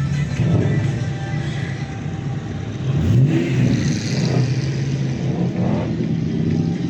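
Car engines running, with one revving up in a rising sweep about three seconds in and shorter rises after it.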